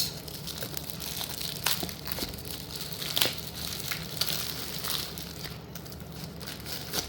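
Crinkling and rustling of packaging while slate pieces are handled, with scattered sharp clicks and crackles at irregular moments.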